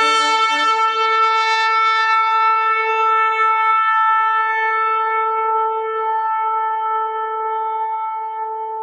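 A shofar (ram's horn) blown in one long blast, held at a single steady pitch and fading slightly near the end.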